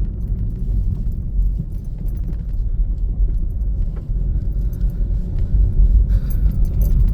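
Car road noise heard from inside the cabin while driving: a steady low rumble of engine and tyres, with faint light rattles over it.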